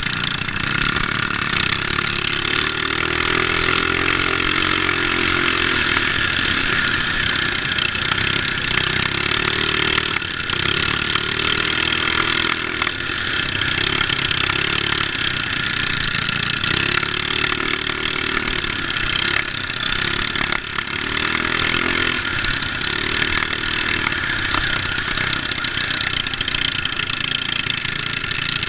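Small mini bike engines running hard in a race, their pitch rising and falling every few seconds as the throttle opens and closes or as bikes go by.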